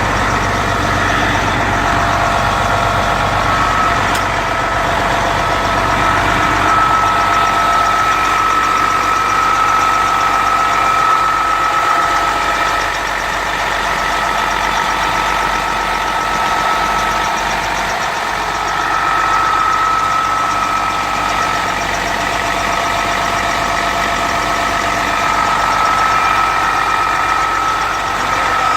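Detroit Series 60 12.7-litre diesel engine idling steadily, with a high whine that fades and returns over the rumble.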